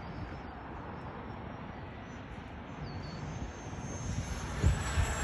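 Electric ducted fan of an FMS Yak 130 70mm RC jet whining in flight, a thin high tone over a rushing hiss that grows louder near the end as the jet comes closer. A brief thump sounds near the end.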